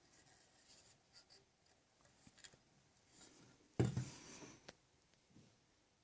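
Faint scratching and rubbing, like something being scraped across a surface, with one louder, sharper scrape that starts suddenly a little before four seconds in and lasts about a second.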